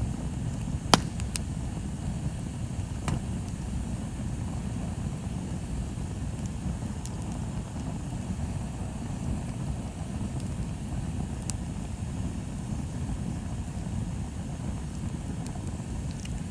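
Bonfire burning: a steady low rush with scattered sharp pops and crackles of burning wood, the loudest about a second in.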